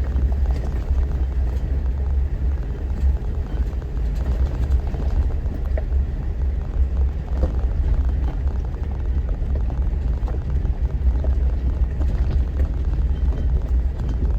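Off-road vehicle driving along a dirt mountain trail: a steady low rumble of engine and tyres, with scattered small knocks and rattles.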